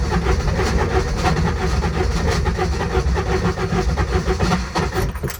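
Intimidator diesel UTV engine cranking on its electric starter without firing, turning over with an even rhythmic beat, then stopping abruptly just before the end. The hard start is one the owner puts down to glow plugs that do not seem to be working.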